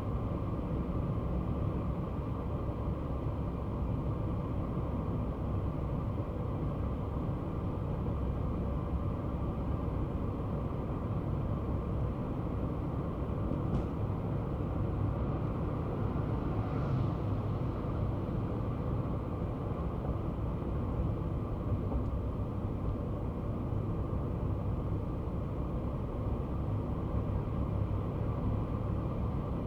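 Kei car driving at a steady pace: a steady low rumble of engine and road noise.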